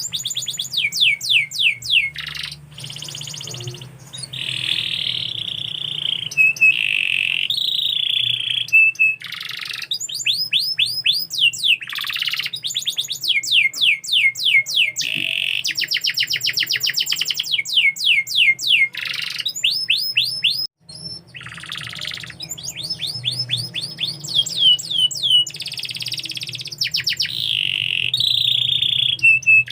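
Domestic canary singing a long, continuous song of fast trills made of rapidly repeated downward-sweeping high notes, broken by one brief pause about two-thirds of the way through.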